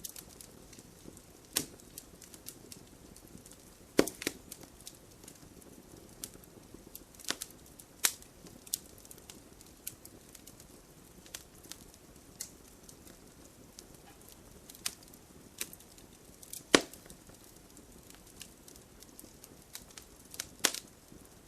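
Wood fire crackling in an open fireplace: irregular sharp pops and snaps over a soft hiss, with a few much louder snaps scattered through.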